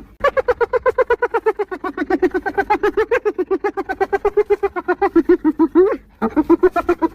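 Spotted hyena giggling: a long run of rapid, high-pitched 'hee-hee' pulses, about six a second, starting a little higher and settling lower. After a short break near the end, a second run begins.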